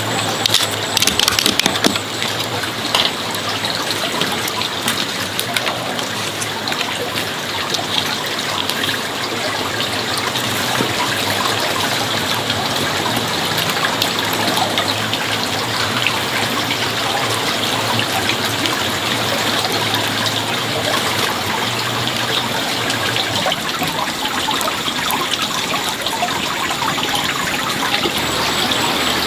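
Water running and trickling steadily, with a few sharp clicks in the first couple of seconds.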